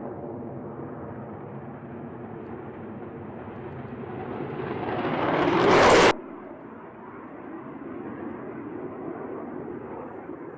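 Jet aircraft engine noise. A steady drone swells to a loud rush as the jet closes in, peaks about six seconds in and cuts off suddenly. A quieter, steady jet rumble follows.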